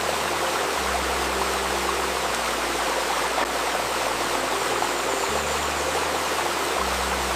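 A babbling stream runs steadily, with soft low sustained tones underneath that shift pitch every second or two.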